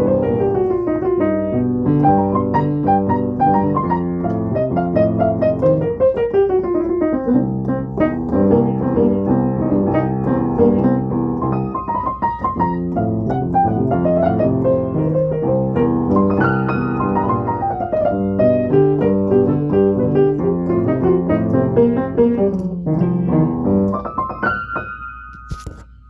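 Piano being played: a busy passage of chords and fast sweeping runs up and down the keyboard, dying away near the end.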